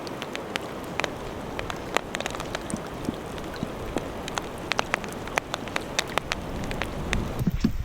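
Steady rain falling, with many individual drops striking close by as sharp, irregular ticks over the hiss. A low rumble builds near the end.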